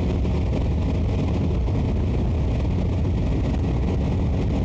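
Motorcycle riding at a steady cruise, heard from the rider's microphone: a low, even rush of engine and wind noise that does not change.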